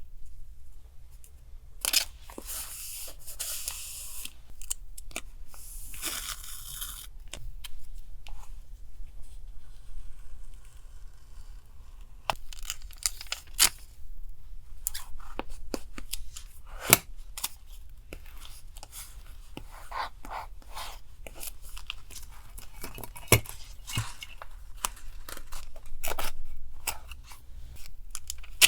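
Paper torn by hand in two long rips in the first several seconds, followed by many small taps, crinkles and rustles of paper pieces being handled and laid down.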